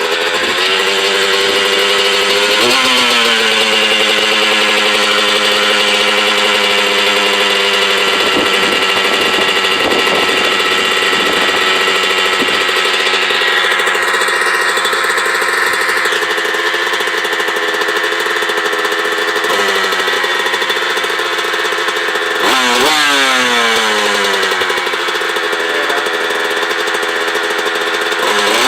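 2000 Honda CR125R single-cylinder two-stroke dirt bike engine running at idle, blipped up and back down a few times. It is not yet warmed up, its carburettor is uncleaned, and its silencer has no packing at all.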